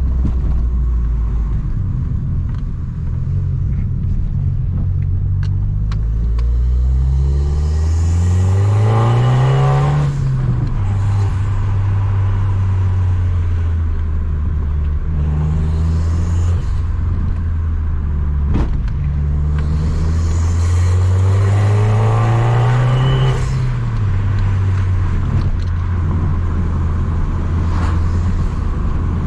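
Abarth 595 Competizione's tuned 1.4 turbo four-cylinder with a free-flowing 60 mm exhaust, running steadily and twice climbing in revs over a few seconds before dropping back abruptly, as when pulling through a gear and then shifting or lifting off.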